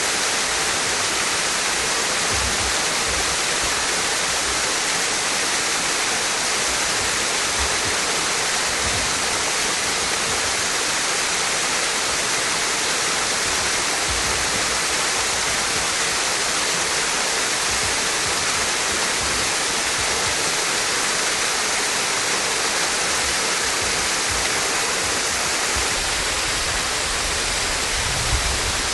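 Water pouring down a partly frozen waterfall, a steady, unbroken rushing hiss, with a few low bumps near the end.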